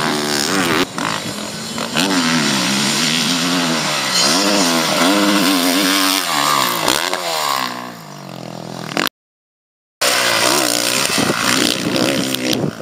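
Motocross bike engine revving hard and backing off over and over, its pitch climbing and falling as the rider works the throttle through the jumps. The sound cuts out completely for about a second near the end.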